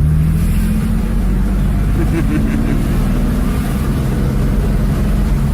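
A motor vehicle's engine running steadily under road noise, a loud low drone with only slight shifts in pitch.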